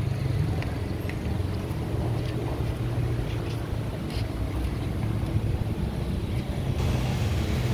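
Steady low engine rumble from traffic or boats, under an even hiss of outdoor noise. A brighter hiss comes in near the end.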